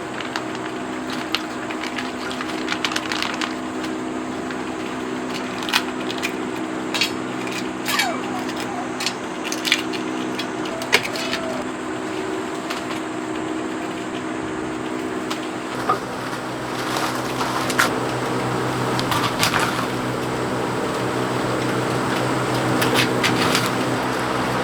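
A steady machine-like hum with scattered sharp clicks and taps over it; the clicks cluster between about five and twelve seconds in and again near the end.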